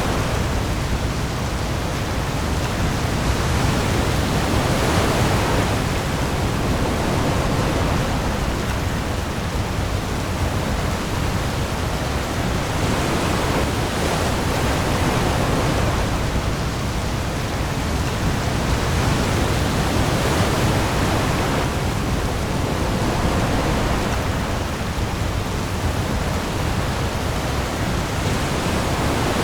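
Heavy rain hissing steadily onto the open sea, with waves surging and easing every few seconds over a deep low rumble.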